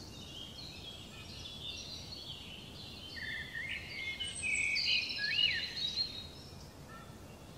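Several birds chirping and calling in quick, overlapping high notes and short swooping whistles, busiest and loudest in the middle, over a faint steady background hiss.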